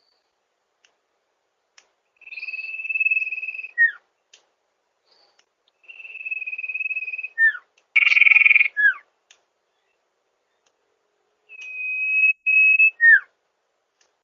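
Sirpu (sirdung) bird calling in a series of phrases about every four seconds. Each phrase is a long, steady high whistle ending in a quick downward slur. A short, harsher note comes between the second and third phrases.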